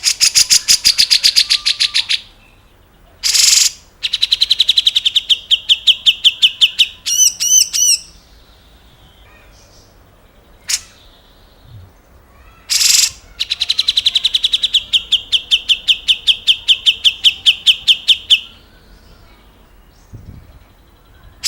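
Grey-cheeked bulbul (cucak jenggot) singing: rapid chattering trills of repeated notes, about ten a second, in bursts of two to five seconds, broken by short harsh notes and a quick run of looping whistles.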